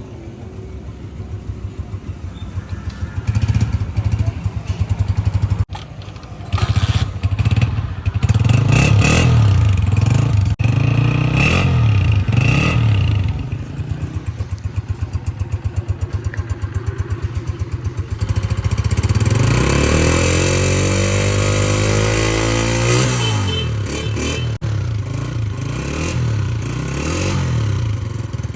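Honda CG125's single-cylinder four-stroke engine running, revved in a series of short blips, then given one longer rev that climbs and falls back to idle about two-thirds of the way through.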